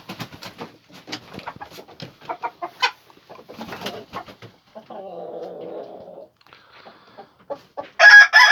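Leghorn chickens clucking with short, scattered calls, with a low, steady murmur for about a second in the middle. Near the end a rooster starts to crow loudly, the loudest sound here.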